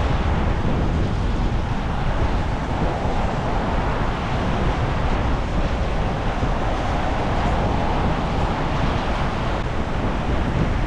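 Strong storm wind blowing over a clip-on microphone: a steady, loud low rumble of wind buffeting with no letup.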